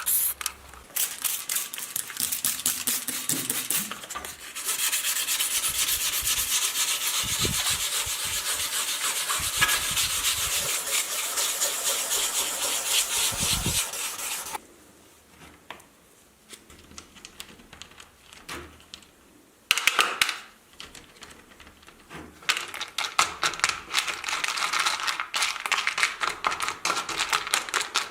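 Rapid scrubbing strokes on a part of an old calculator during cleaning or restoration. They run for about fourteen seconds, pause for several seconds, then start again.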